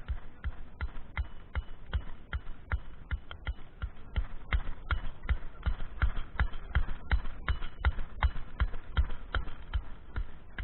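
A steady, even run of dull thuds, about three a second, getting louder toward the middle.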